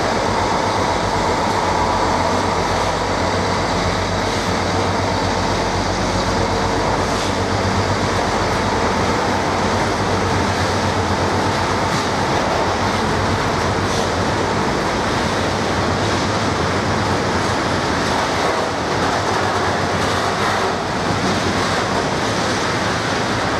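Freight train of tank wagons rolling steadily through the station, a loud continuous rumble and rattle of wagon wheels on the rails.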